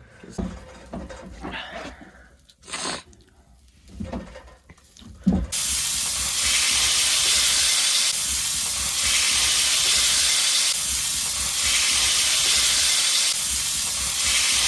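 Burger patties sizzling loudly in a hot pan. After a few quieter seconds of handling noise and a knock about five seconds in, a steady loud sizzle takes over and cuts off suddenly at the end.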